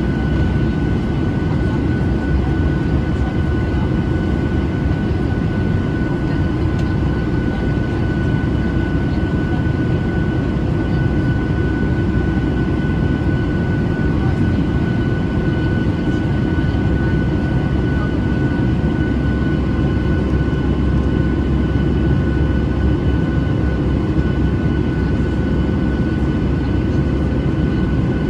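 Cabin noise of a Boeing 737-800 in flight: a loud, steady rumble of its CFM56 engines and the airflow past the fuselage, with a thin constant whine over it.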